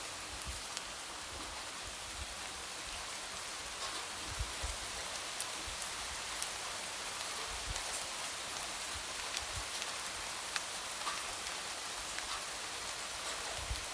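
Light rain falling steadily, with many individual drops tapping.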